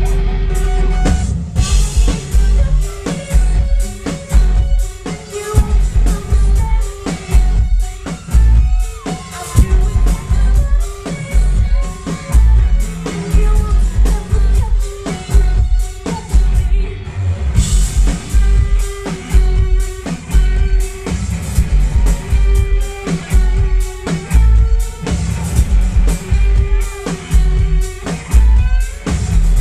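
Live rock band playing loud with drum kit, electric guitar and singing; a steady beat of heavy bass drum hits runs under it, heard close to the stage through a small microphone.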